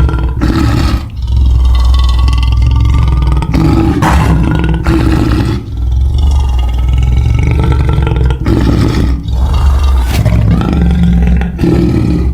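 Supergator creature roar sound effect: a run of deep roars, each a few seconds long, following one another with only brief breaks.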